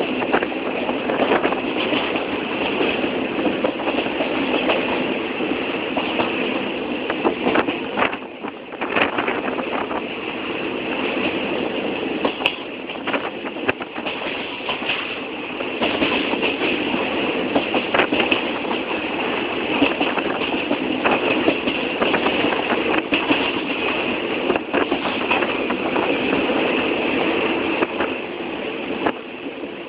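Train running on its rails: a steady rattling noise with many sharp clicks and knocks throughout, dipping briefly about eight seconds in.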